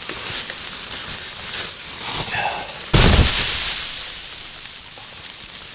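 Fabric rustling and handling noise as clothing layers are pulled on, with scattered clicks and a sudden loud burst of noise with a low thump about three seconds in that fades over a second or so.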